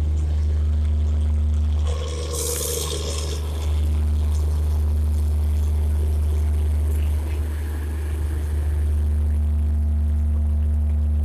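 The last coaches of a passenger train, ending with the luggage brake and generator car, rolling slowly past with a steady low hum. A short hiss sounds about two seconds in.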